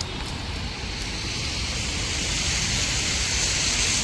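Floodwater rushing: a steady hiss that grows louder from about halfway through, over a low rumble of wind on the microphone.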